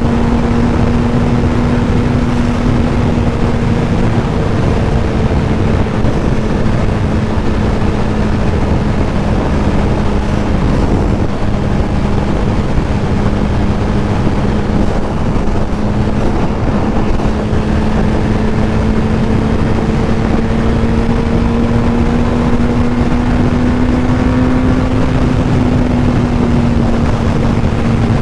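Yamaha R1's inline-four engine at steady cruising speed, its pitch holding nearly even and rising a little about four-fifths of the way through before settling back, under heavy wind noise on the microphone.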